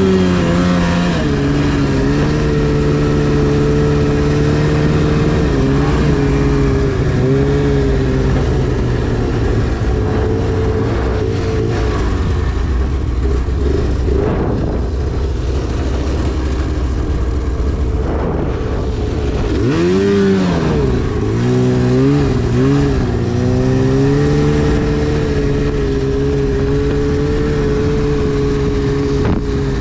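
2010 Arctic Cat CFR 1000 snowmobile's two-stroke twin engine running at a steady high throttle through deep snow. It eases off briefly around 7 seconds in, then drops more deeply and climbs back up around 20 seconds in.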